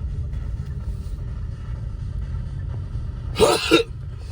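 Car cabin noise while driving: a steady low road and engine rumble. A short burst of a voice breaks in about three and a half seconds in.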